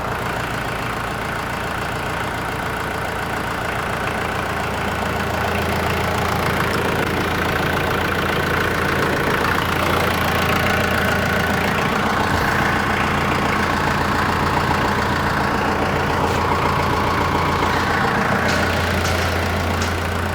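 New Holland tractor engine idling steadily on fresh oil and new filters, run briefly after the oil change to check for leaks. It grows a little louder a few seconds in.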